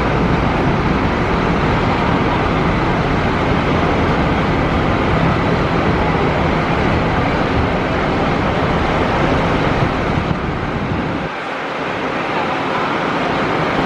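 Steady engine and road noise from a moving Scania K400 double-decker coach. The low rumble drops away briefly about eleven seconds in, then comes back.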